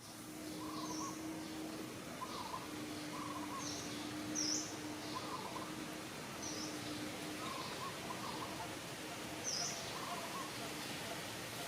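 Birds chirping in short calls roughly every second over a steady hiss of outdoor noise, with a low steady hum that comes and goes.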